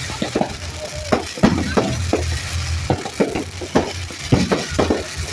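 Fireworks bursting and crackling: sharp irregular pops, roughly three a second, over a low rumble.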